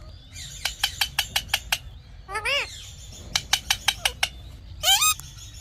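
Indian ringneck parakeet calling: runs of short, sharp chirps, a rising-and-falling squawk about two and a half seconds in, more chirps, and a loud rising screech near the end.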